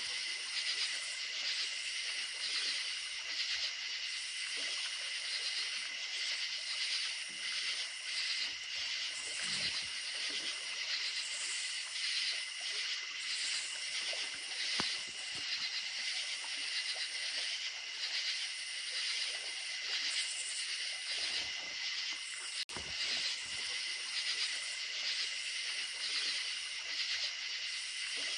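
A dense chorus of crickets trilling steadily at night: several overlapping high-pitched trills that pulse continuously, over a faint even hiss. The sound drops out for an instant about three quarters of the way through.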